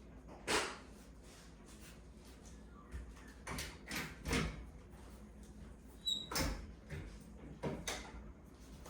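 A string of short knocks and rustles of doors or cupboards being handled, with a brief high ringing tinkle about six seconds in.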